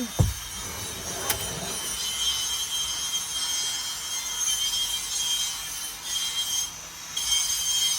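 A cut panel rubbing and scraping against the vehicle's interior as it is pushed into a tight fit, with one sharp knock about a second in.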